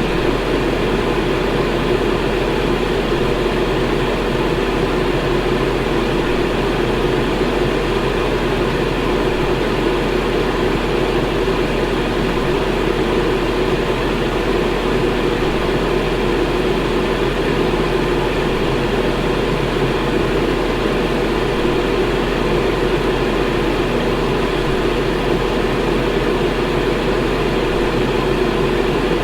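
Electric fan running at a steady speed: an even, rushing noise with a faint hum, with no change in level or pitch.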